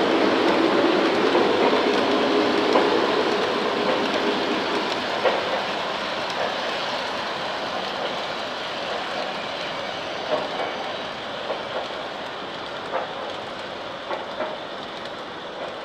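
Lionel Doom Liner O gauge three-rail model train rolling along the track, with scattered clicks of its wheels over the rail joints. It grows steadily fainter as the train moves away.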